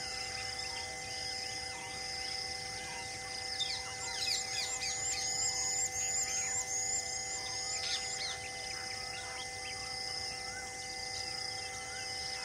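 Wild birds chirping and calling, with a quick run of repeated high chirps for a few seconds near the middle, over a steady high-pitched hum.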